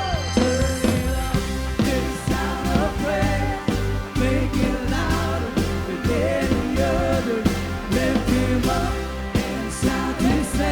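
Upbeat worship band music in a passage without lyrics: a steady drum beat and bass under a melodic line that bends in pitch.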